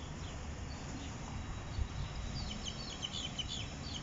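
A bird chirping in a quick run of short high notes, starting a little past halfway, over a steady low rumble, with a single thump just before the chirping.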